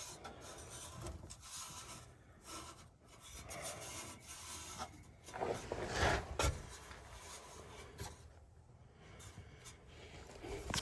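Irregular scraping and rubbing of metal exhaust pipe pieces being worked into place over the pipe ends, with a couple of louder knocks about six seconds in.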